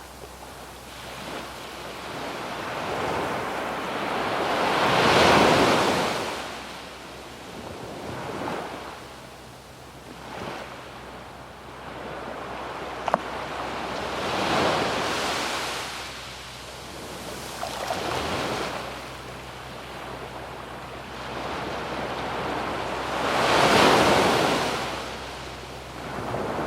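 Ocean waves breaking and washing up a sandy beach, the surf swelling and fading in slow surges, three louder breakers about nine seconds apart.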